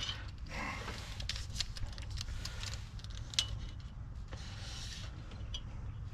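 Scattered small clicks and light metallic rattles of a tape measure being handled and pulled out, over a low steady background rumble.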